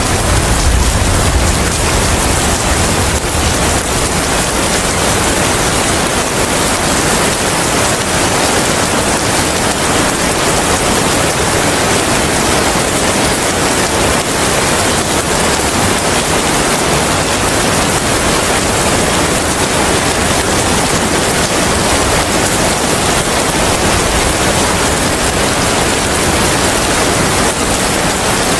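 Steady heavy rain with wind, an even hiss across the whole range; a low rumble fades out about a second in.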